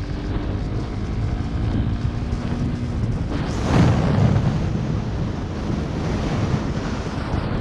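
Wind buffeting a helmet- or bike-mounted camera microphone on a moving motorcycle, with the engine's drone faint underneath. A louder rush of wind comes about halfway through.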